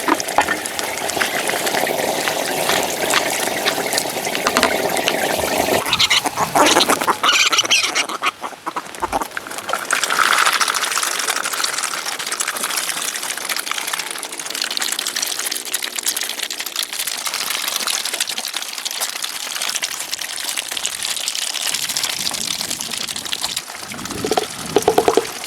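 Water running steadily, with short animal calls about six to eight seconds in and again near the end.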